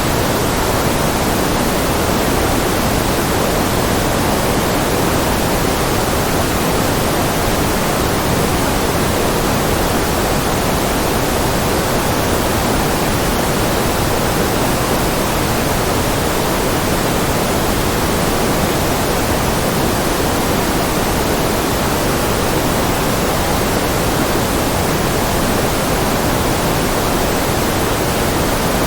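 Steady synthetic noise of the white-noise kind, an even hiss with more weight in the lower middle than the top, unchanging throughout.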